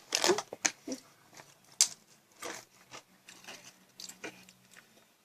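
Doritos tortilla chips being bitten and chewed: irregular crisp crunches, loudest in the first two seconds, then softer chewing.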